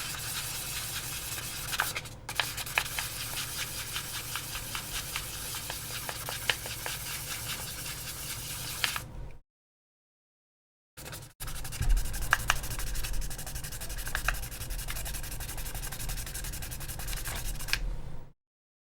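800-grit sandpaper rubbed in quick back-and-forth strokes over the plastic of an AirPods Pro case, a continuous scratchy rasp. The sound drops out completely for over a second about halfway and again briefly near the end.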